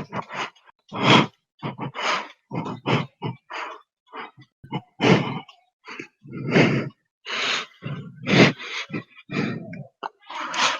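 A person breathing heavily and grunting close to the microphone, in short, irregular bursts with brief silences between, about two a second.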